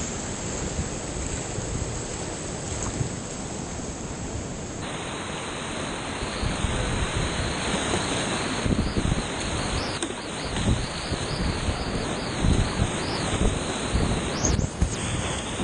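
Steady rush of creek whitewater, with irregular low buffeting on the microphone growing stronger in the second half.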